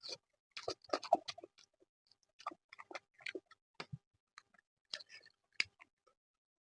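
Close-up eating sounds: a mouthful of food being chewed, with irregular wet clicks and smacks of the lips and tongue, busiest about a second in.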